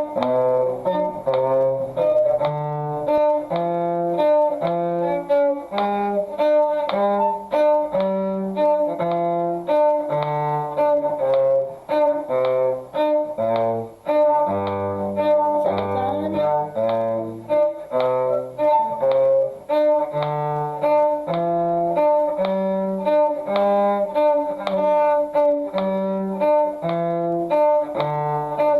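Bowed string instruments playing a slow one-octave G major scale, with a D sounded between the scale notes, in even held notes over a steady metronome click.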